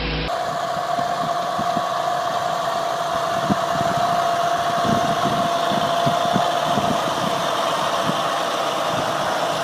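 Farm machine's engine running steadily, with a constant whine and irregular knocking or clattering underneath.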